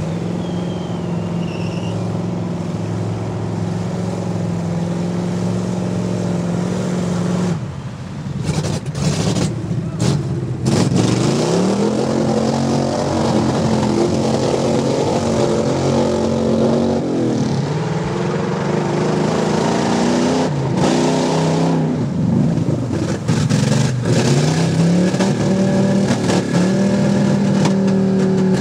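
Off-road vehicle engines running hard in mud bogging. A steady engine drone for the first seven seconds or so is broken off abruptly a few times. Then come repeated surges where the revs climb, hold high and drop again.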